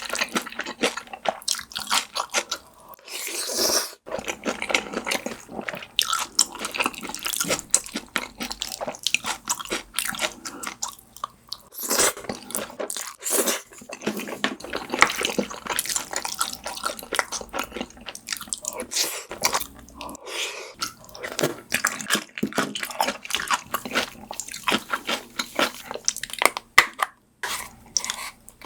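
Close-miked eating of black bean noodles and sweet-and-sour pork: steady wet chewing and lip-smacking, with short crunches and clicks coming irregularly several times a second.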